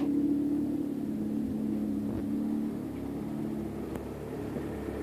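Honda F20B 2.0-litre four-cylinder engine idling steadily: a smooth, even idle, called a perfect idle.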